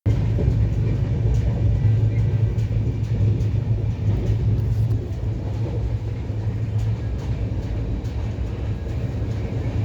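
Steady low rumble of a moving passenger train, with faint scattered clicks over it.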